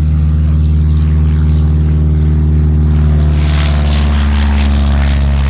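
Propeller-driven light airplane's engine running steadily at a constant pitch.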